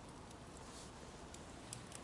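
Wood bonfire crackling: a few sharp pops and snaps scattered over a faint steady hiss.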